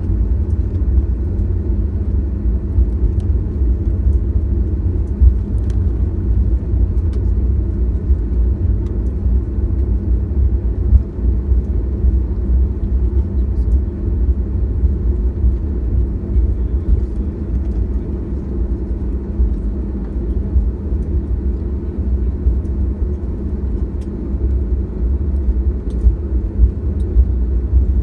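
Boeing 737-800 airliner noise: a steady low rumble with a constant hum, unchanging throughout.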